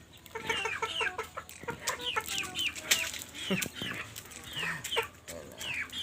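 A flock of young native chickens clucking and calling while they eat, many short falling calls overlapping one another, with scattered light ticks.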